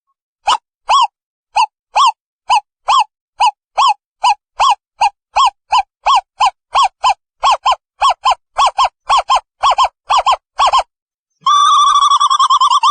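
Owl calling: a series of short, pitched hoots that speeds up from about two to about four a second, then breaks into a fast trill near the end.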